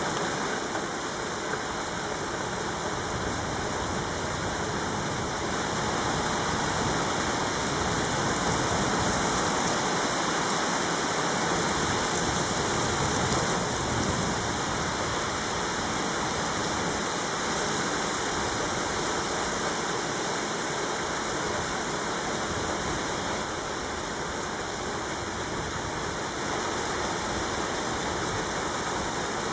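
Heavy rain pouring steadily, a dense, even hiss that swells slightly louder in the middle.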